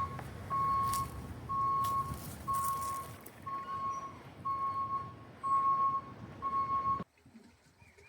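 Vehicle reversing alarm beeping: a steady mid-pitched beep about once a second, eight times, over a low rumble. It cuts off suddenly about seven seconds in.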